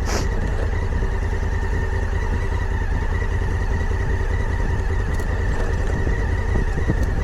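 Off-road motorcycle engine running at low revs as the bike rolls slowly down a rocky trail on a little rear brake, a steady low rumble.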